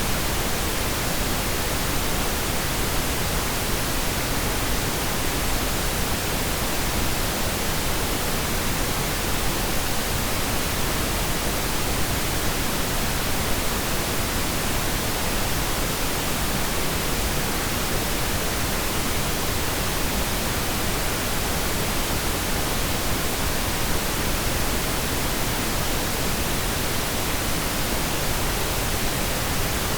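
Steady pink noise: an even, unchanging hiss with no breaks or events.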